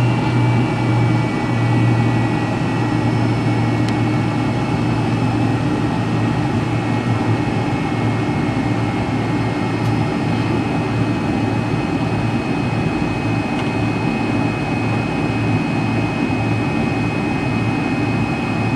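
McDonnell Douglas MD-83's rear-mounted Pratt & Whitney JT8D turbofans running at low power, heard from inside the rear cabin. A steady low hum sits under a high whine, which drops slightly in pitch over the first couple of seconds and then holds steady.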